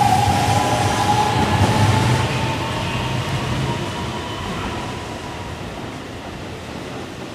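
Keihan 13000-series electric train accelerating out of the station: wheels rumbling on the rails under a motor whine that slowly rises in pitch. Both fade steadily as the last car passes and the train pulls away.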